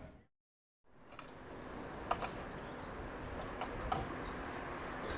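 A moment of silence at a cut. A steady outdoor background hiss then fades in, with a few faint, short bird chirps.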